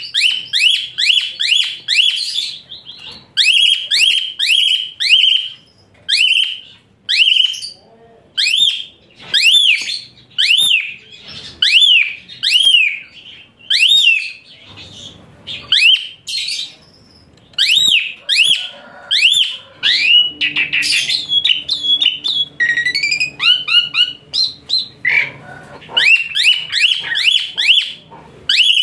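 Asian pied starling (jalak suren) singing: rapid runs of shrill, high notes, each sliding up and then down, several a second, broken by short pauses. About two-thirds of the way through the notes turn harsher, over a low buzz.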